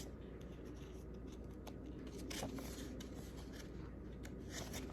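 Faint rustling and a few light clicks of a picture book's paper pages being handled.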